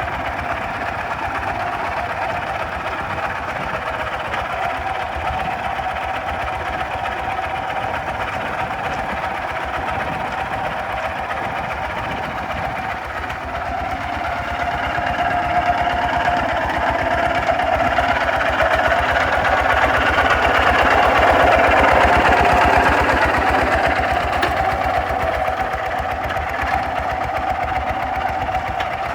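Kubota RT 140 DI walking tractor's single-cylinder diesel engine running steadily under plowing work, with a rapid, even beat. It grows louder for several seconds midway, then eases back.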